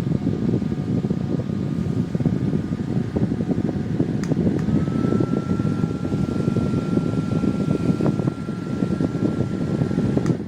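VTHW USB desk fan running, a steady rush of air with a thin high motor whine. About four seconds in there is a click and the whine breaks off briefly, then returns slightly higher.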